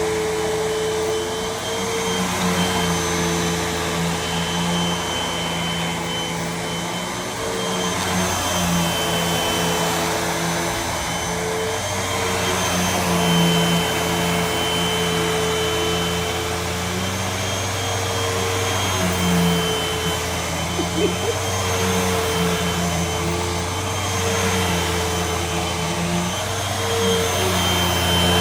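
Hoover WindTunnel upright vacuum cleaner running steadily. Its motor makes a steady hum with a thin high whine above it, and the pitch dips briefly now and then.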